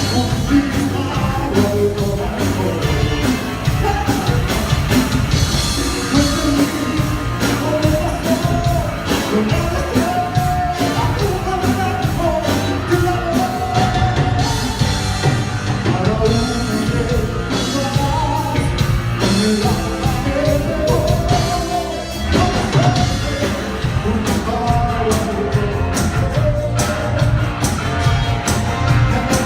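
Cumbia band playing, with a steady beat, heavy bass and a melodic lead line over it.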